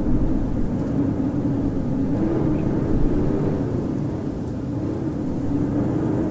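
Strong winter wind rushing steadily, with a low howling tone that slowly rises and falls in pitch.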